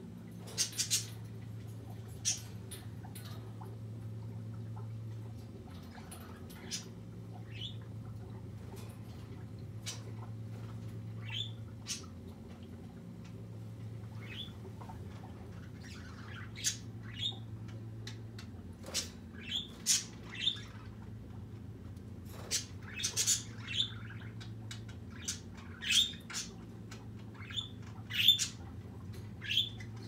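Caged pet birds giving short, sharp squawks and chirps, scattered at first and coming more often in the second half. A steady low hum runs underneath.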